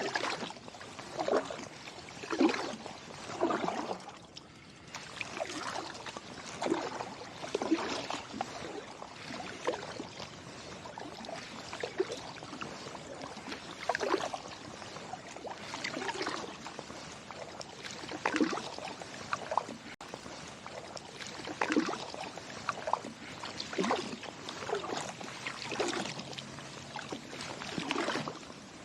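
Kayak paddle strokes dipping into slushy river water, about one splash a second, with water trickling off the blades between strokes.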